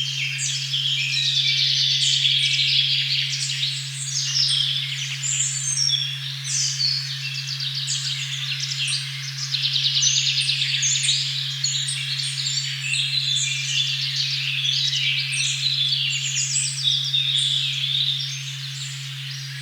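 A steady, pure 136.1 Hz tone hums without a break under a forest recording of many birds singing at once, a dense chorus of overlapping chirps and whistles.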